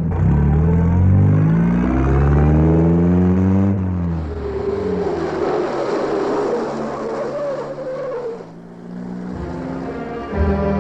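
A car engine accelerating hard through the gears, its pitch climbing and then dropping at a shift about two seconds in and climbing again. This is followed by a long, wavering tyre squeal that dies away after about eight seconds.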